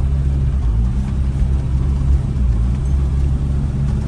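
Mini truck's small engine droning steadily as the truck drives along, heard from inside the cab.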